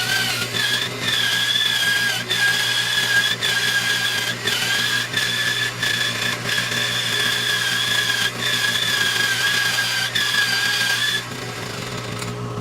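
Bandsaw cutting black walnut, a steady whine that dips briefly about once a second. Near the end the whine stops and a lower, steady machine hum carries on.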